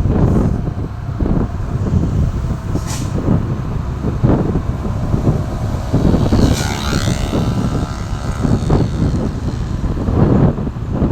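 Heavy truck traffic passing on a road, a steady low rumble with wind buffeting the microphone. There is a short hiss about three seconds in, and a brief high-pitched squeal around six and a half seconds in.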